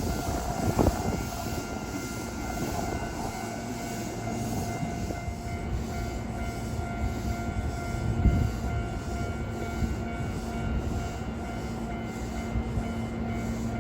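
Hankyu electric train running on the Kyoto Line: a steady rumbling rail noise with a constant whine of several held tones and a brief swell about eight seconds in.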